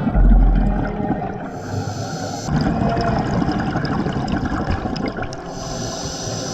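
Underwater bubbling and water noise with two hissing breaths a few seconds apart, typical of a scuba diver breathing through a regulator.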